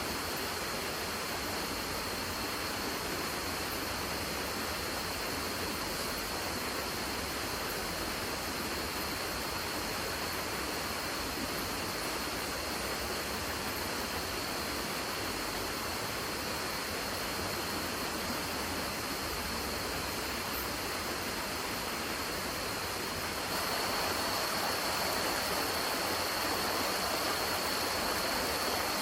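Steady rushing outdoor noise with a thin, steady high whine over it, growing somewhat louder about 23 seconds in.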